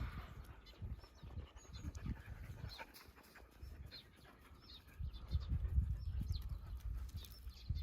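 Jindo dogs panting in uneven low breaths. The panting eases off for a couple of seconds in the middle, then comes back stronger.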